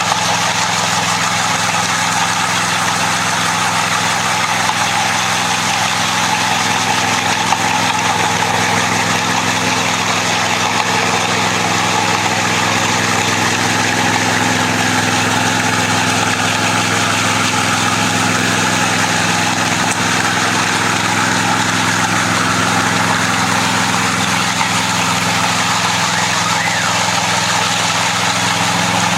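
Power trowel (helicopter trowel) engine running steadily as its rotating blades smooth and finish a concrete slab that has begun to set.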